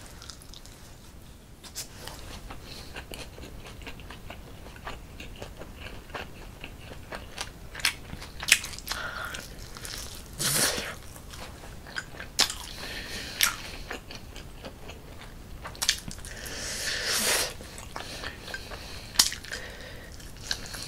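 Close-miked biting and chewing of meat from a teriyaki chicken skewer, with scattered sharp mouth clicks and a few louder bites.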